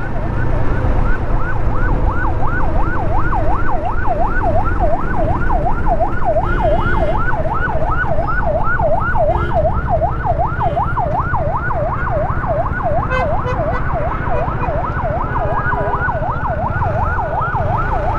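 Electronic yelp siren on a VIP's car, its pitch sweeping rapidly up and down about three times a second, over a steady low rush of wind and road noise.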